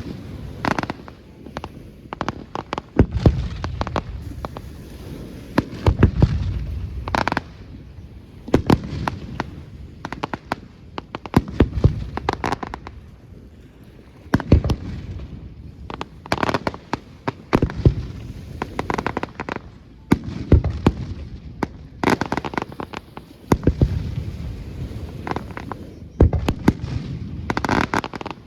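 Aerial fireworks display: repeated sharp bangs of shells bursting, coming in clusters every few seconds, with deep rumbling echoes and crackling between them.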